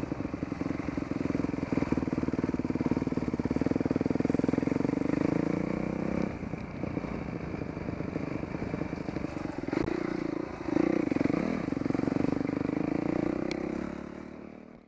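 Dirt bike engine running as it is ridden, the throttle easing off about six seconds in and again about ten seconds in, then picking back up. The sound fades out near the end.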